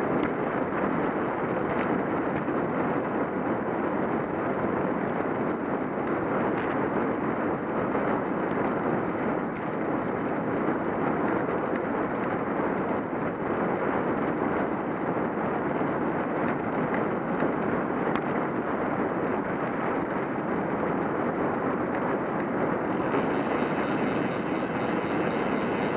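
Steady rush of wind on the microphone mixed with tyre noise from a cyclocross bike rolling along the road. About 23 seconds in, a thin higher hiss joins in.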